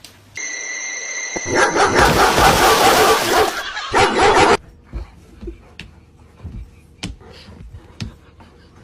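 A dog yipping and barking over a loud noisy rush that lasts about four seconds and ends abruptly, followed by scattered soft knocks.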